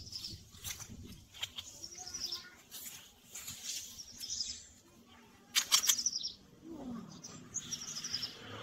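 Small birds chirping in short, quick runs of high notes, several times over. A short rustle a little past halfway is the loudest sound.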